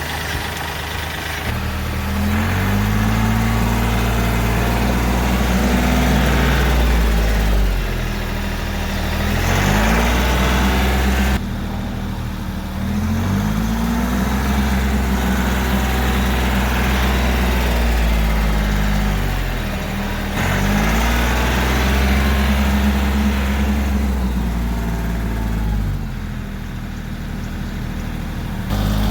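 Kioti CK3510 compact tractor's three-cylinder diesel engine running, its speed rising and falling back several times as the tractor is maneuvered.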